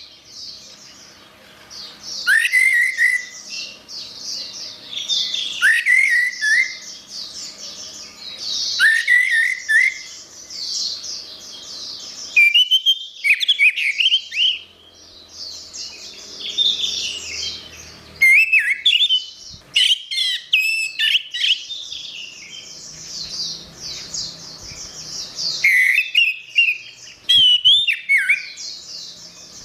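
Orange-headed thrush (anis merah) singing: whistled phrases that sweep up and down, mixed with fast high twittering, coming in bursts every few seconds with short pauses between.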